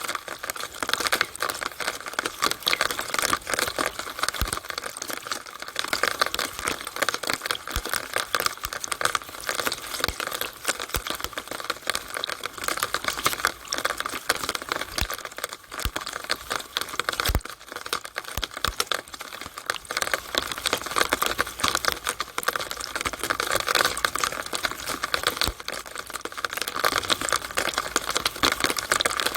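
Rainwater running and dripping in a downspout: a dense, steady crackle of many small drops and splashes, with a few sharper ticks.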